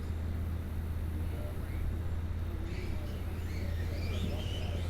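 Birds calling with high, wavering chirps over the second half, above a steady low hum.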